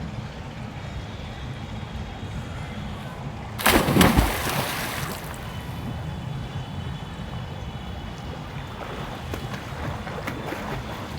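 Water splashing and sloshing around a freestyle swimmer over a steady low rumble of water and wind. One loud splash comes about four seconds in and fades over a second, with a few faint small splashes near the end.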